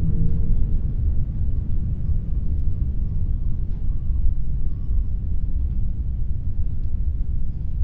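Wind blowing, heard as a steady low rumbling noise whose level rises and falls a little. A faint low hum fades out in the first second.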